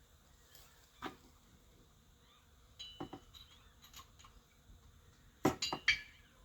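Light metal clinks and knocks of hand tools and engine parts: a single knock, another about two seconds later, then a quick run of louder ringing clinks near the end.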